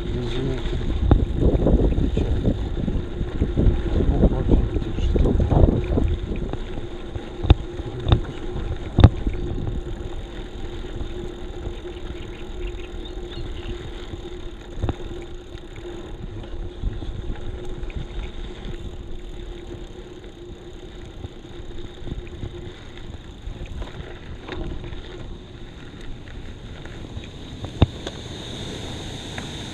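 Wind buffeting an action camera's microphone while a bicycle is ridden, over the rolling noise of the tyres on the road. The wind is heaviest for the first several seconds, and a few sharp knocks from bumps stand out.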